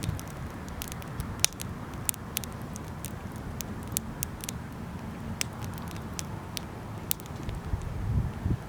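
Wood fire crackling, with irregular sharp pops over a steady low rush.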